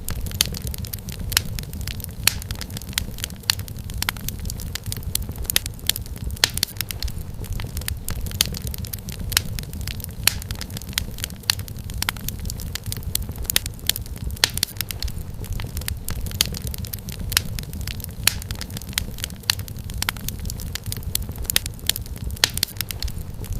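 Wood fire crackling in a fireplace: a steady low rumble of burning with frequent sharp, irregular pops and snaps of firewood.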